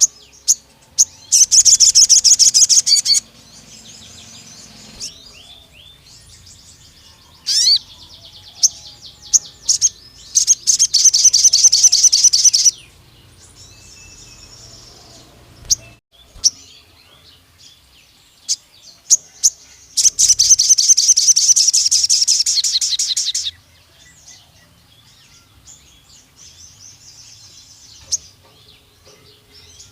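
A sogon bird singing in long, rapid trilled bursts three times, the 'nembak panjang' (long shooting) song of a vigorous male used to provoke rivals. Short chirps and whistled notes come between the bursts.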